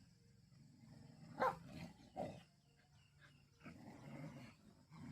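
Two dogs play-fighting: a sharp bark about a second and a half in, another shortly after, then a stretch of growling near the end.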